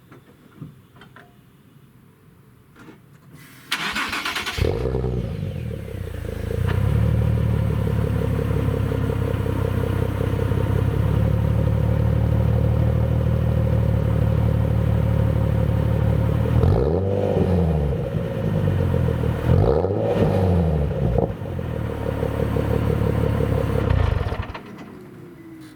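2010 Nissan 370Z's 3.7-litre V6 through a full Cobra cat-back exhaust with Y-pipe, started from cold. The starter cranks briefly about four seconds in, then the engine catches and settles into a steady, deep idle. Past the halfway point it is blipped a couple of times, revs rising and falling, and it is switched off shortly before the end.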